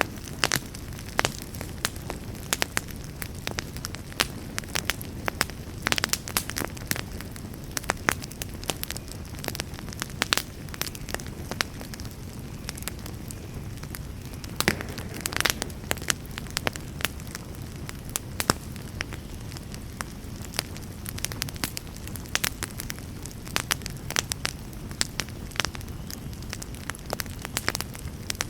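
Wood fire in a fireplace burning steadily, with a low rush of flames under frequent irregular crackles and pops.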